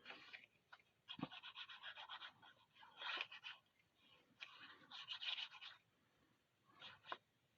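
Glue being applied to pieces of cardstock: faint bursts of rapid, scratchy ticking in three stretches, with a light tap about a second in.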